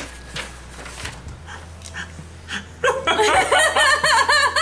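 A few soft clicks and rustles, then from about three seconds in, loud bursts of laughter in quick pulses.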